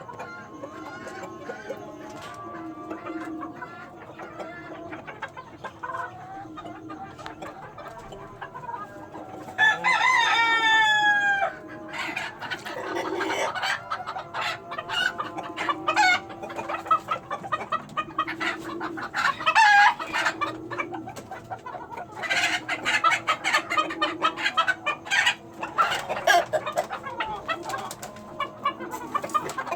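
Light Sussex chickens clucking on and off, with a rooster crowing once, loudly, about ten seconds in.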